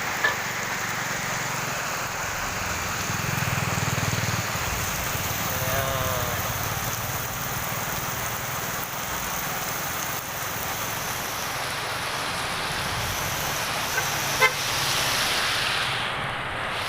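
Heavy rain falling with strong wind, a steady rushing that swells twice, about three seconds in and again near the end. A brief pitched tone sounds around six seconds, and two sharp knocks come near the end.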